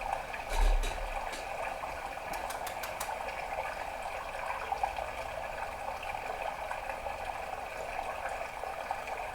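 Budgerigar chattering in a continuous warble, with a low thump just after the start and a quick run of clicks about two and a half seconds in.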